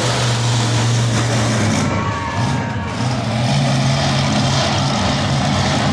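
Monster truck engine running loudly with a deep steady note that turns uneven and wavering after about two seconds.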